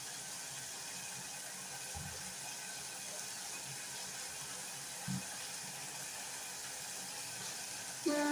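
Steady hiss of a pot of meat in soup simmering on the stove, with two faint soft knocks about two and five seconds in.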